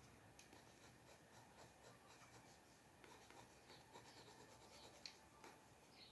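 Faint scratching of short drawing strokes on paper, with a sharper tick about five seconds in.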